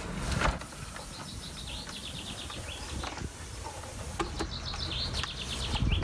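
A small bird singing two quick, high trills of repeated chirps, one after the other, over a low steady background rumble.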